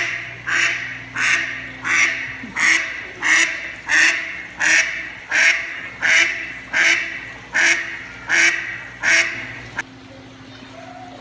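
A duck quacking over and over in a loud, even rhythm, about fourteen quacks a little under a second apart, stopping about ten seconds in. A steady low hum runs beneath it.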